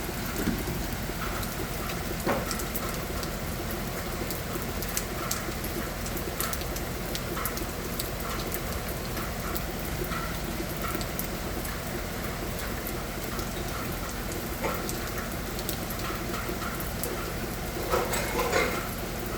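Steady rain with many individual drops tapping on a hard surface, and a brief cluster of louder knocks near the end.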